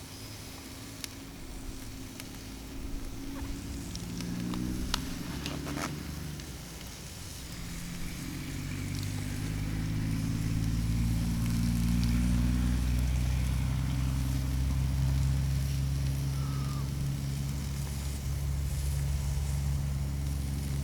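Faint sizzling from chicken roasting on alder grilling planks on a Weber grill, with a few sharp clicks in the first six seconds. From about eight seconds in, a low, steady engine-like hum swells and becomes the loudest sound.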